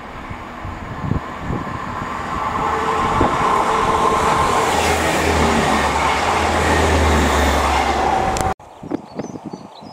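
Class 158 diesel multiple unit approaching and passing close below: engine and rail noise build over the first few seconds to a loud, steady rush, with a deep engine hum in the last few seconds of the pass. The sound cuts off abruptly about eight and a half seconds in.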